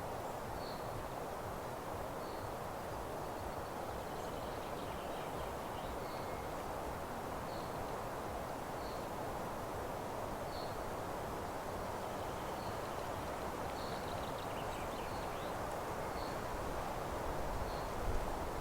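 Meadow ambience: a steady even hiss with a small bird's short, high chirps repeated about once a second and faint twittering from other birds. A few low thumps come near the end.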